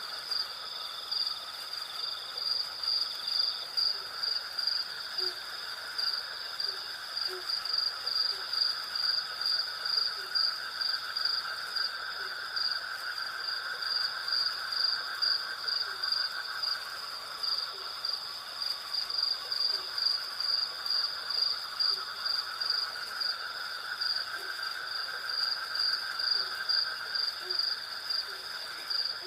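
Night insect chorus of crickets and cicadas: a high, rhythmically pulsing chirp over steadier trilling layers at lower pitches, with short low notes scattered through it.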